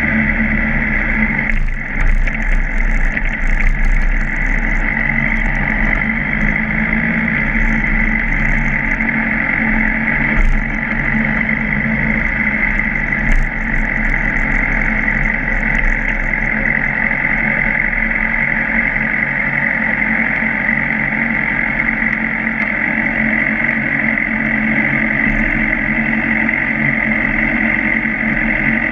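Suzuki GSR600's inline-four engine running at a steady pitch as the motorcycle rides, with no rev changes.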